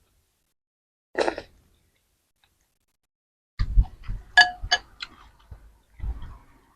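Utensils clinking and knocking against a bowl several times in quick succession past the middle, some strikes ringing briefly. A short breathy burst comes about a second in.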